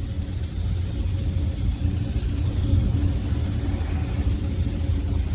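Steady low machine rumble with a continuous hiss of compressed air, as the spray gun blows air over freshly sprayed surfacer to flash it dry.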